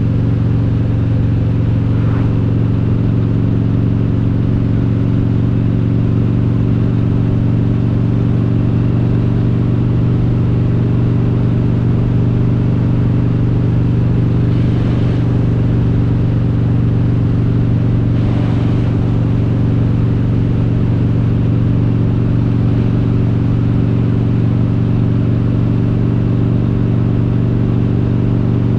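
Harley-Davidson Road King's V-twin, built up with an S&S 95-inch kit and Super Stock heads, running at a steady cruise with an even, unchanging engine note.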